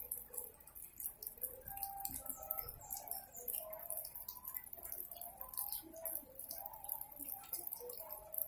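Garden ambience: scattered short bird chirps over a faint, rapid, irregular high ticking.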